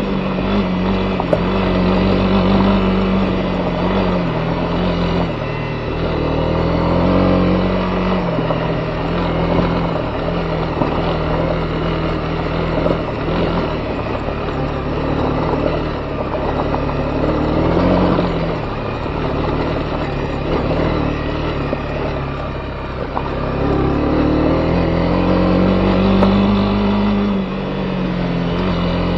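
Honda CB250R single-cylinder four-stroke engine running under way, its revs rising and falling as the motorcycle is ridden along a gravel forest road, over a steady rush of road and wind noise.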